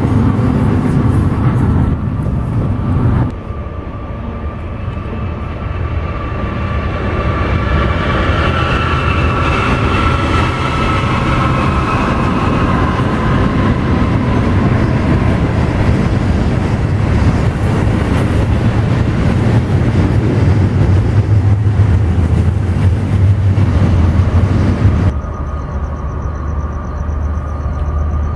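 Diesel-hauled train running on the line: a steady low rumble with faint pitched tones above it, growing louder toward its peak and then dropping off abruptly near the end. The sound also changes abruptly about three seconds in.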